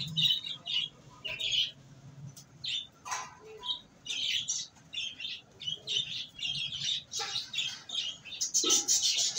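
Small birds chirping in quick, irregular short calls, with a few sharp clicks among them.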